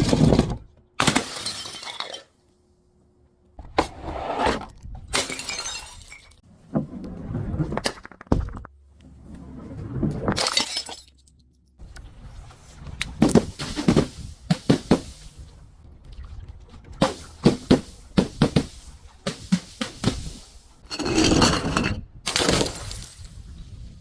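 Glass bottles being broken and crushed: a series of shattering crashes and crunches, some coming as quick runs of sharp cracks, with short pauses between.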